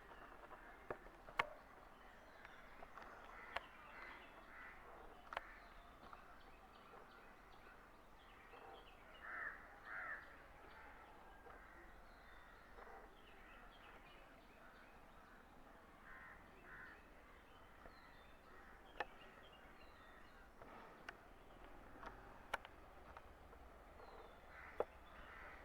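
Faint backyard bird chatter. Harsh bird calls come in pairs about a third of the way in and again past the middle, with scattered sharp clicks.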